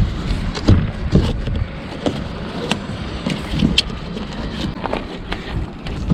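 Wind buffeting the microphone outdoors, with a scattering of irregular knocks and clicks.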